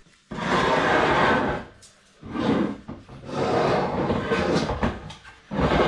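Four bursts of scraping, each lasting from half a second to about a second and a half.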